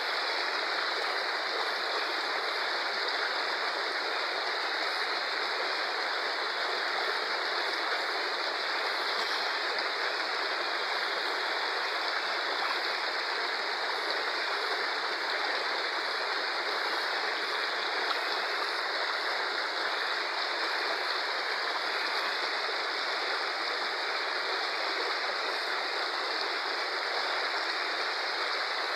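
Fast-flowing river rushing, a steady, even noise of water.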